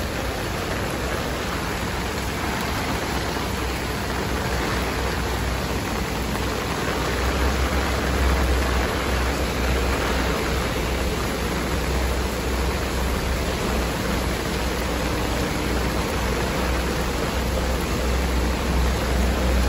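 Steady hiss of heavy typhoon rain, with a low rumble of strong wind on the microphone that grows heavier about a third of the way in.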